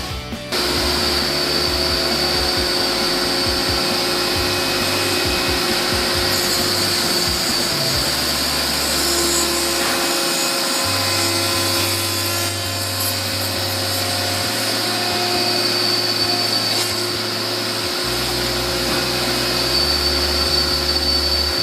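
Woodworking power machinery running steadily with a continuous whine, under background music whose low notes change every few seconds.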